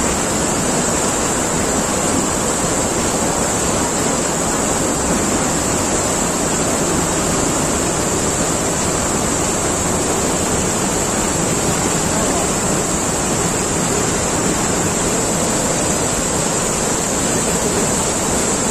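Strong floodwater rushing past in a loud, steady, unbroken wash of noise.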